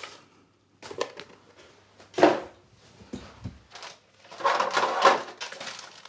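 Parts being handled and set down by hand: a few separate knocks, the loudest about two seconds in, then a short rustling, scraping stretch around four to five seconds.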